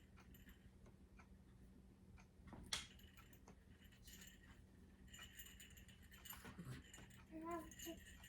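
Near silence with faint small clicks and clinks of play gym parts being handled and fitted together, one sharper click about two and a half seconds in. A brief faint voice-like sound comes near the end.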